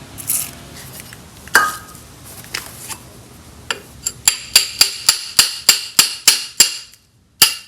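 Hammer blows on steel, working the Porsche 914's gear shift rod loose from the transmission: a few scattered knocks, then from about four seconds in a quick, even run of ringing metallic strikes, about three or four a second, with a brief pause near the end.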